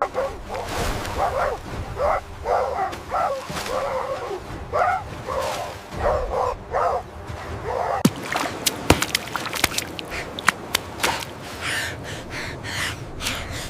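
An animal's rapid series of short yips and whimpers, one call about every half second. From about eight seconds in, sharp clicks and snaps take over, with a few higher calls near the end.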